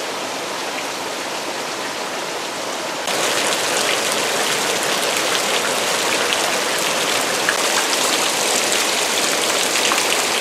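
Heavy rain falling steadily, with scattered ticks of single drops; it gets louder about three seconds in.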